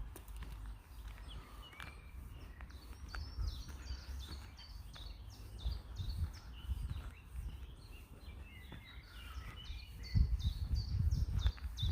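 Wild birds singing: quick series of short, high repeated notes and chirps. Under them runs a low rumble that grows louder near the end.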